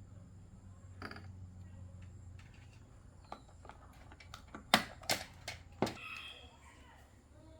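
Clicks and knocks of small hard objects being handled: a scatter of light clicks, then three sharper knocks close together about five seconds in, over a low steady hum.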